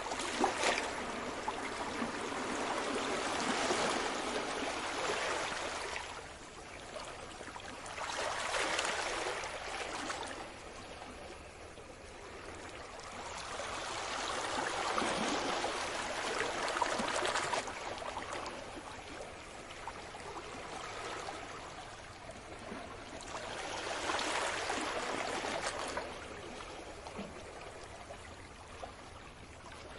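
Sea waves washing onto the shore, swelling and fading in about four surges several seconds apart.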